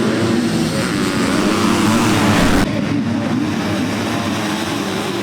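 Motocross bike engines revving on the track, their pitch rising and falling with the throttle. The sound changes abruptly about two and a half seconds in.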